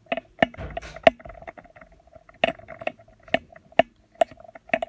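A run of irregular sharp clicks and knocks, several a second, some louder than others, each followed by a brief low hum.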